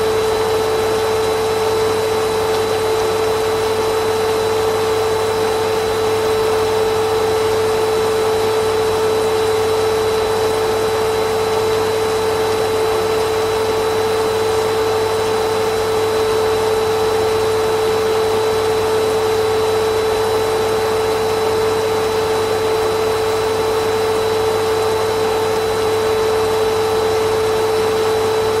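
Vacuum cleaner running at a steady pitch: a constant motor whine over the hiss of rushing air, with no change in speed.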